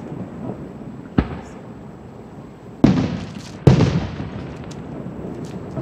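Aerial fireworks shells bursting a quarter mile off: three sharp booms, at about one, three and four seconds in, the last the loudest, each trailing off in a rolling echo.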